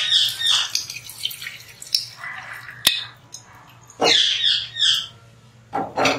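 A bird calling in quick runs of harsh, high calls: once at the start, again around four seconds in and once more near the end. A single sharp click comes near the middle.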